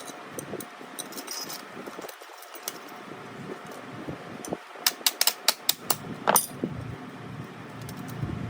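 A quick run of about eight sharp clicks and clinks, a little past halfway through, the last one the loudest, over a low steady background.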